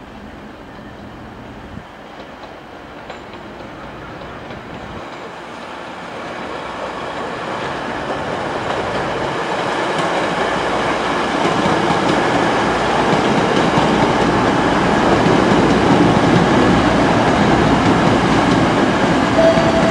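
Virgin Voyager diesel multiple unit running past on the track, growing steadily louder through the first two-thirds and then holding level.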